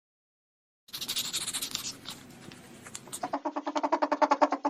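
An animal call played as a sound effect: a raspy, hissing rasp, then from about halfway a fast run of pulsed, pitched grunting calls.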